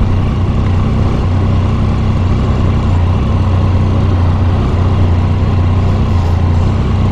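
Triumph Tiger 800's three-cylinder engine running at a steady low speed, with an even low hum.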